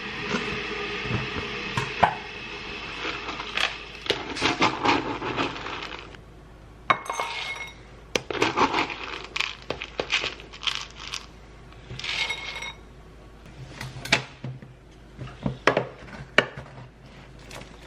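Dishes and utensils knocking and clinking in a string of irregular light impacts. A steady humming sound runs under them and stops about six seconds in.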